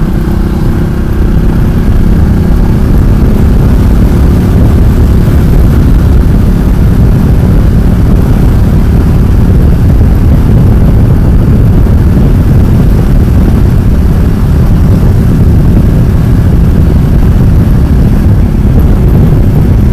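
Ducati Multistrada 1200 S L-twin riding at steady speed, heard as a loud, even low rush of wind over the microphone mixed with engine and road noise.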